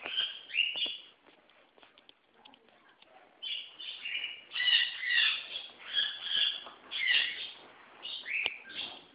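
Caged parrots calling: two short calls at the start, a lull of about two seconds with faint clicks, then a run of quick repeated calls, about two a second, from about three and a half seconds in.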